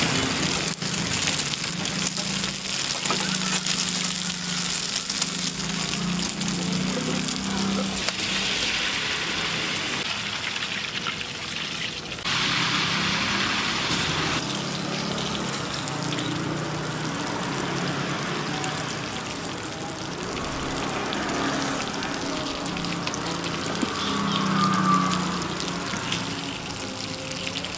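Steady sizzling hiss of egg and oil frying in a hot multi-cup metal mold pan on a stove, with a low hum underneath; the sound changes abruptly about twelve seconds in.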